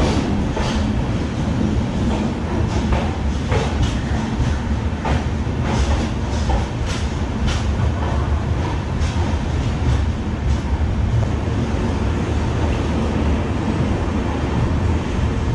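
Express train coach rolling along the platform as it pulls into the station: a steady low rumble of wheels on rail, with irregular clicks as the wheels pass over rail joints, heard from the open coach doorway.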